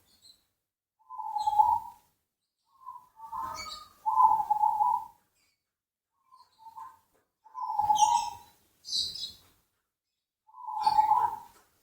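Zebra dove (perkutut) cooing: a string of short, soft trilled coo phrases, each under a second long, repeated every second or two with silent gaps between them.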